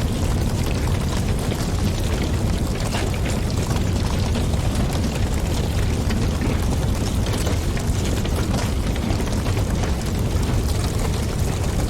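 Wood fire crackling, with scattered sharp pops over a steady low rumble of flames and wind.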